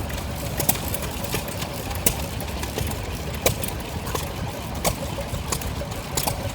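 Vintage stationary engine running, with a steady low chuffing under a sharp crack about every one and a half seconds.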